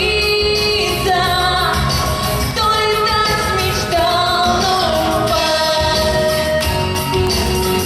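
A woman singing a Russian pop song over instrumental accompaniment with a steady beat, holding long notes with vibrato.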